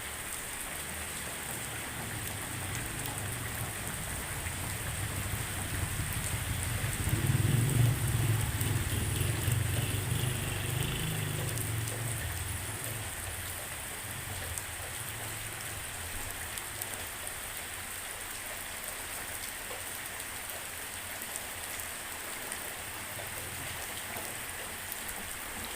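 Light rain falling steadily on surfaces, a drizzle. About seven seconds in, a low rumble swells and then fades away over several seconds.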